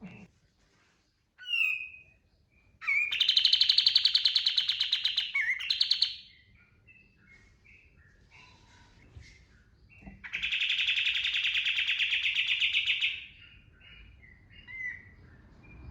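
Kapas tembak bulbul singing: two long, loud rapid-fire trilled bursts of a few seconds each, the 'tembakan' song, with short scattered chirps between them.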